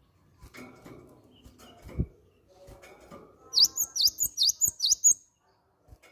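Cinereous tit (gelatik batu) singing a quick run of about six sharp, high, repeated notes about three and a half seconds in. Before it come faint rustling and a single soft knock.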